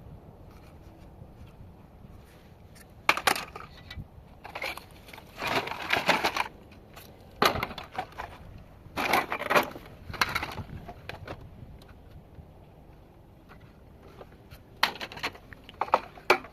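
Plastic casing of a small electric gadget cracking and crunching as it is broken apart, in about six bursts of rapid crackling separated by short pauses.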